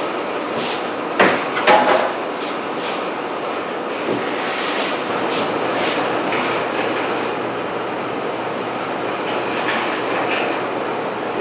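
Power saw cutting through plywood, running steadily, with two sharp knocks a little over a second in.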